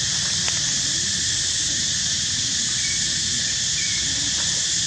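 Steady high insect drone, with a few faint short chirps and a low rumbling haze underneath.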